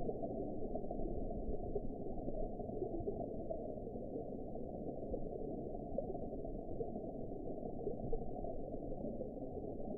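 Underwater ambience: a steady, muffled wash of water noise, all low and dull with the high end cut away, even throughout with no distinct events.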